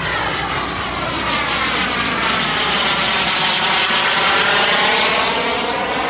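KingTech 235 turbine of a 3-meter BVM Desperado RC jet making a flyby: a rushing turbine whoosh that grows louder, peaks about four to five seconds in, then begins to fade, with the sweeping, phasing tone of a passing jet.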